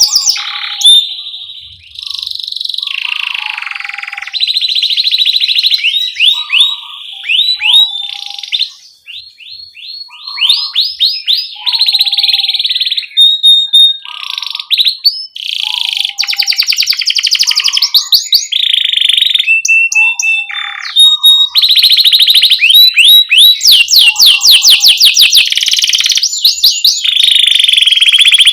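Domestic canary in full, loud song: fast rolling trills of rapid chirps and quick sweeping notes, broken by brief pauses and short lower notes.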